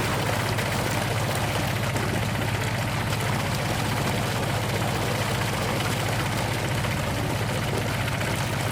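Small engine of a DIY mini tractor running steadily at idle, a low, even, rapidly pulsing hum that begins abruptly.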